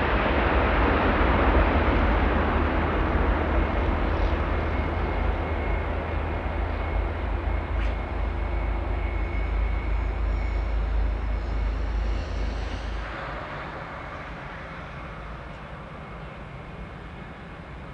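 Jet airliner engines: a loud roar with a deep rumble and a thin steady whine, fading as the aircraft passes. The rumble drops away about thirteen seconds in, leaving a fainter roar.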